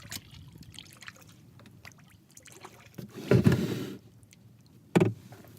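Kayak paddle strokes in the water, with water trickling and dripping off the blade. There is a louder splash about three seconds in and a shorter one near the end.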